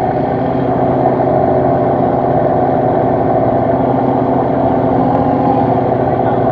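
Fishing boat's engine running at a steady drone, with an even, unchanging pitch throughout.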